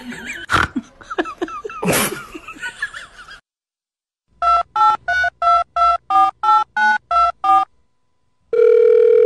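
Touch-tone telephone keypad beeps: ten short two-note tones, about three a second, as if dialing a number, followed about a second later by a long steady telephone tone. Before them, a few seconds of jumbled noise and voice-like sounds that cut off suddenly.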